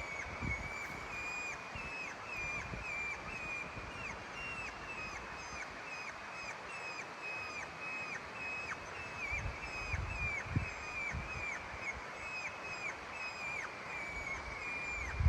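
A steady run of short, high chirping calls, a few a second, each ending in a quick drop in pitch, with a few soft low thumps about ten seconds in.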